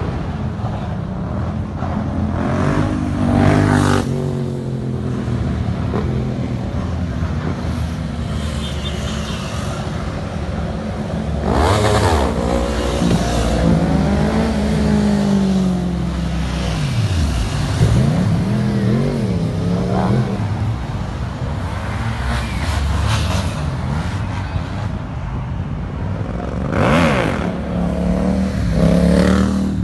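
Car engines running at a meet, with several rev-ups: sharp rises in pitch about three seconds in, about twelve seconds in, and near the end, and shorter revs between them.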